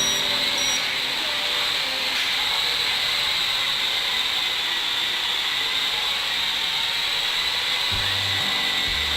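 Small electric motor spinning a propeller, a steady high whirring hiss. Low music notes come in near the end.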